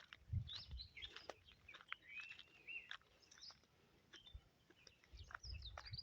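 Wild birds chirping faintly in short, scattered calls, one a longer curving call about two seconds in, with a few soft low thumps near the start and near the end.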